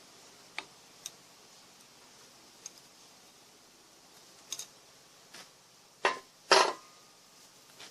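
Scattered clinks and knocks of metal parts and tools being handled during disassembly of an electric motor. A few light ticks come first, then two louder knocks about six seconds in.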